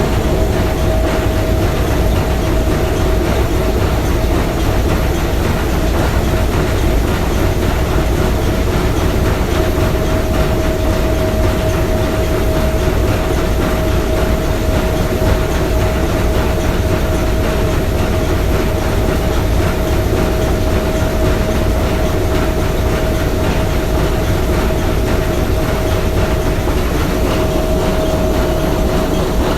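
The S.S. Bohuslän's three-cylinder triple-expansion marine steam engine running steadily: a dense mechanical clatter over a constant hum.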